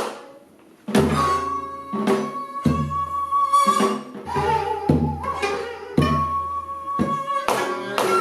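Korean traditional instrumental ensemble playing a passage between sung sections: after a short pause, sharp plucked or struck notes come about once a second over deep ringing bass notes, with a held flute line, in the manner of daegeum, gayageum, ajaeng and buk accompaniment.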